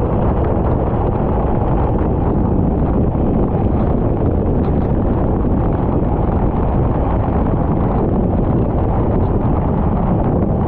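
Racing kart on track, its engine running under steady wind rumble on the onboard microphone.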